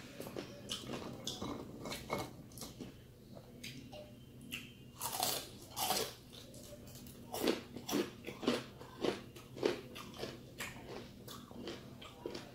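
Crispy deep-fried chicken skin crunching as it is bitten and chewed, a string of sharp crunches with a steady run of about two a second in the second half.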